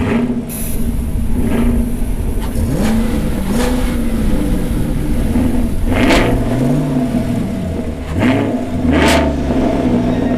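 Car engine accelerating, its pitch rising and falling several times, with two louder whooshes about six and nine seconds in.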